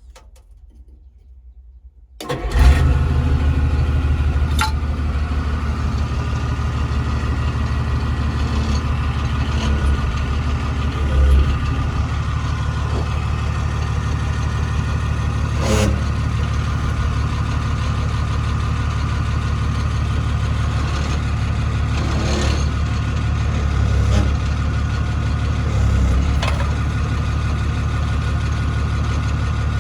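Isuzu 6BD1 six-cylinder diesel of a Hitachi UH06-5 hydraulic excavator catching about two seconds in and then idling steadily, with a few brief clicks over it.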